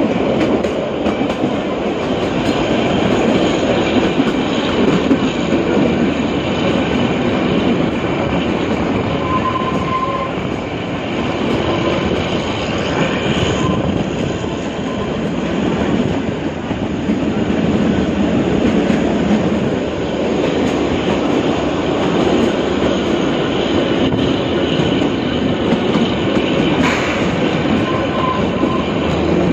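Kalka–Shimla narrow-gauge toy train running along the track, a steady rumble and rattle of its coaches' wheels on the rails heard from an open coach window. A faint, brief wheel squeal comes about ten seconds in and again near the end as the train takes the curves.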